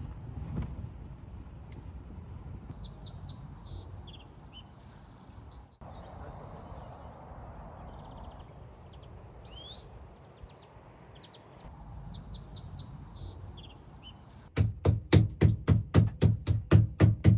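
Songbirds chirping in two short flurries of quick high chirps over a low steady rumble. Near the end comes a fast, even run of loud heavy beats, about four a second, which cuts off at the end.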